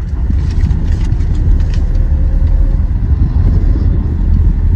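Toyota Innova running, a steady low rumble with no breaks.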